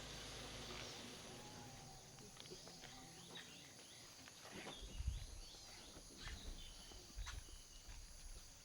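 Faint open-country dawn ambience: scattered bird chirps over a steady high insect drone, with a few soft low thumps, the loudest about halfway through.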